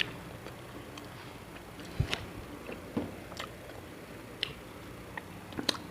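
Eating sounds: irregular short clicks and wet smacks of a person biting and chewing food, the strongest about two seconds in and near the end.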